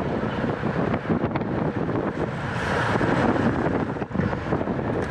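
Wind buffeting the microphone of a camera riding in a bicycle race, with tyre and road noise underneath and a brief louder rush of hiss about halfway through.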